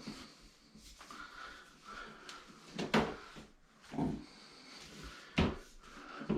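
Scattered knocks and clunks of handling, with three sharper ones about a second apart near the middle and later part.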